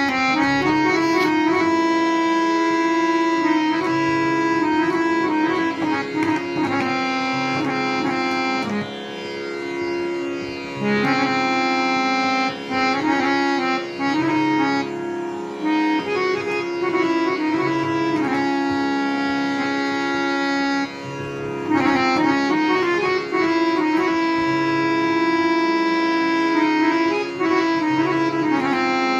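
Harmonium playing a melody over held drone notes, with chords sustained for a second or more and brief dips in loudness around ten seconds in and again near twenty-one seconds.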